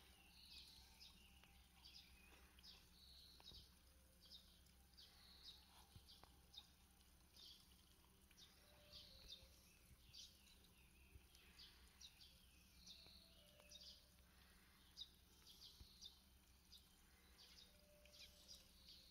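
Small birds chirping faintly: short high chirps in quick irregular series, over a low steady hum.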